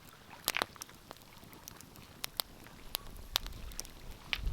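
Wood fire crackling in a fireplace: irregular sharp pops and snaps over a faint steady hiss, with a low rumble swelling near the end.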